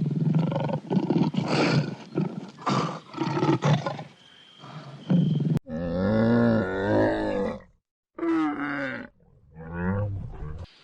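A big cat roaring and growling in a series of rough bursts. About five and a half seconds in, it cuts to a different animal giving three pitched calls that bend in pitch, the first and longest lasting about two seconds.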